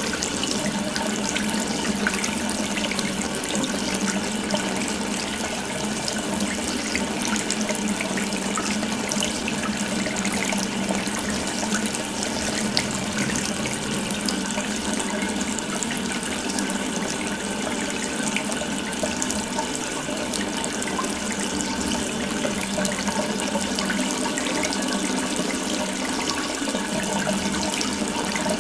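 Water running steadily from an open faucet, splashing continuously.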